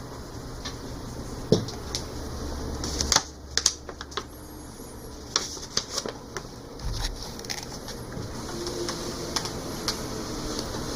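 Scattered light clicks and taps over low, steady room noise, with a low hum during the first few seconds.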